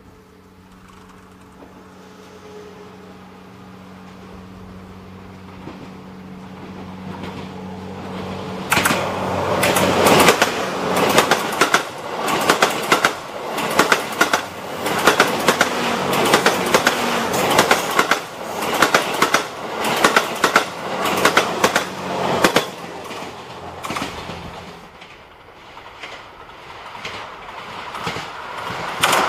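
A train approaching with a steady low hum that grows louder, then passing close by about nine seconds in, its wheels clattering rhythmically over the rail joints for some fourteen seconds before fading away. The clatter rises again near the end.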